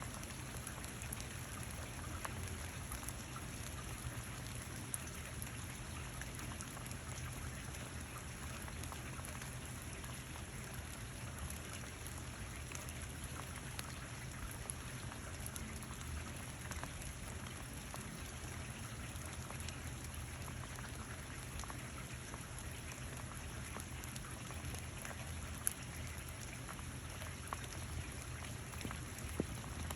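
Steady rain falling, an even patter of drops with a few louder single drop hits standing out.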